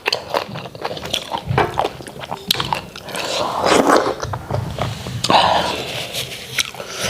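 Close-up, wet smacking and chewing of a mouthful of starch swallow and white soup: a stream of quick lip smacks and mouth clicks, with a few louder wet, slurpy swells in the middle.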